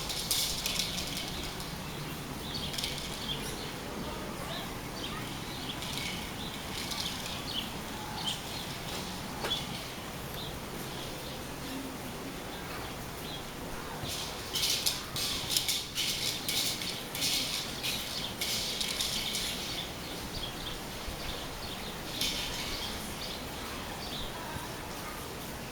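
Steady rainfall, with bursts of rapid, high-pitched bird chatter that come and go, longest for several seconds past the middle.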